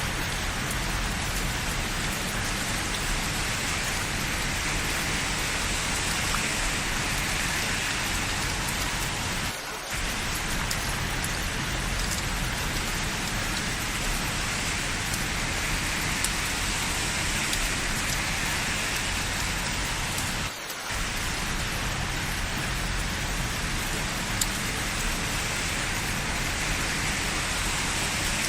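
Steady rain, an even hiss of many drops falling. The sound dips briefly twice, about ten seconds in and again about twenty-one seconds in.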